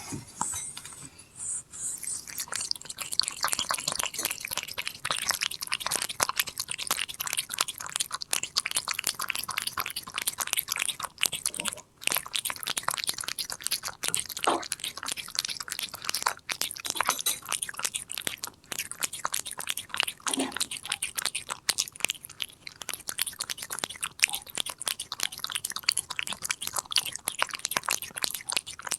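Korean shorthair cat chewing and crunching a treat close up: a fast, continuous run of small crisp crunches, with a brief pause about twelve seconds in.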